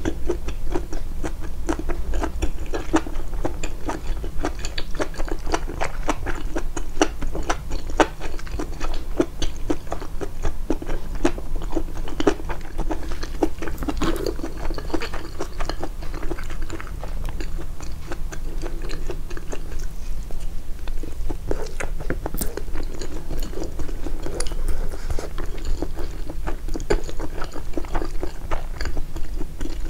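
Close-miked chewing and biting of food, a steady stream of quick wet clicks and small crunches. The eating sounds are boosted in editing.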